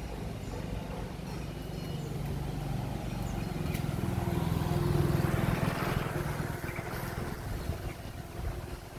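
A motor vehicle passing by: its engine hum and road noise swell to a peak about five seconds in, then fade.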